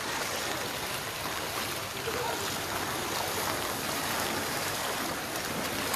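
Steady rushing of water, an even hiss without breaks.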